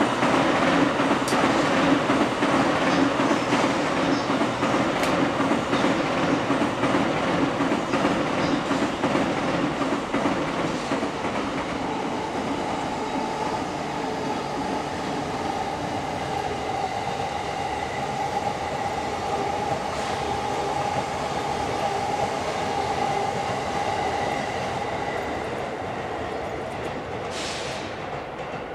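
Electric trains running on the tracks, among them a JR East E657 series limited express: a dense rumble of wheels on rail that is loudest at first and slowly fades. A steady whine sits over it from about twelve seconds in, and a short hiss comes near the end.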